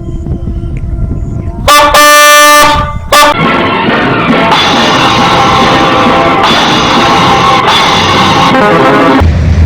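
A train horn sounds one loud, steady blast of about a second, about two seconds in, over a low rumble. Dramatic background music with drums and guitar then takes over, and a deep boom hits near the end.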